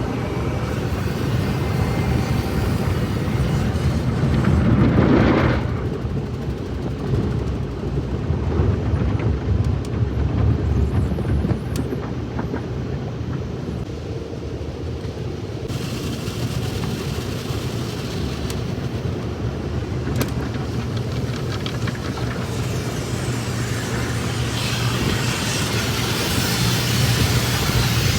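Car wash at work: a steady low rumble of machinery, swelling louder about five seconds in, with spells of higher hiss just past halfway and again near the end.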